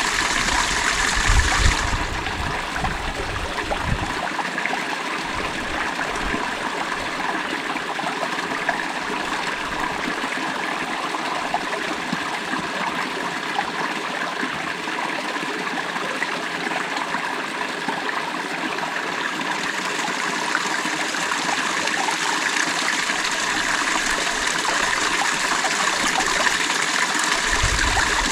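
Creek water flowing and trickling over stones in a steady, even rush, with a brief low rumble in the first few seconds and again near the end.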